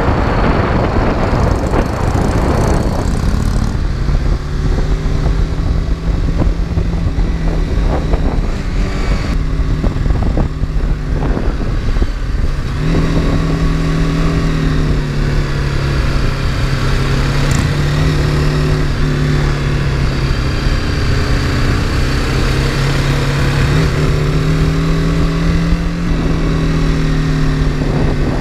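BMW G310GS single-cylinder motorcycle engine running at a steady cruise over wind noise, heard from on the bike. Wind noise is heaviest in the first few seconds. The engine note holds a fairly even pitch, with small rises and falls.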